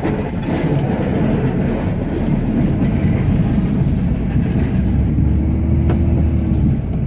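Ram pickup's Cummins turbo-diesel engine running steadily while plowing snow, a loud low drone heard from inside the cab. About five seconds in, a faint steady whine joins it for nearly two seconds.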